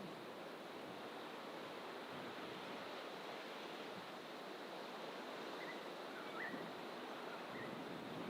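Steady wash of distant ocean surf, with a few faint bird chirps in the second half.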